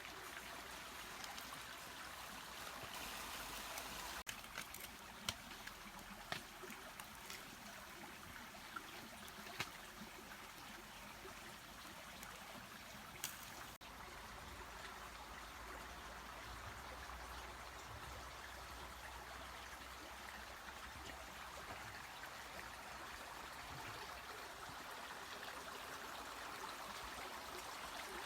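Mountain stream flowing, a steady faint rush of water, with a few sharp clicks in the first half.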